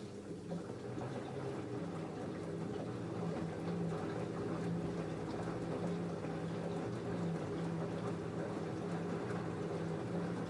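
LG F10A8HDS5 front-loading washing machine moving water: a pump hum with a few steady tones over rushing, gurgling water. It switches on abruptly with a click just before and stops shortly after.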